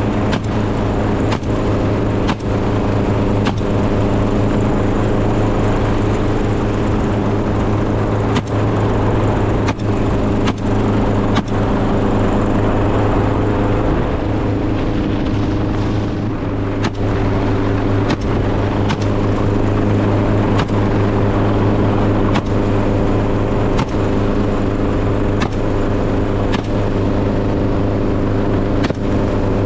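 An engine running steadily at one speed, with irregular sharp knocks or clicks over it every second or so.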